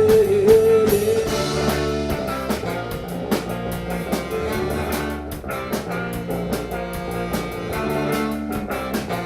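A live blues-rock band playing an instrumental passage between verses, with guitar and a drum kit keeping a steady beat.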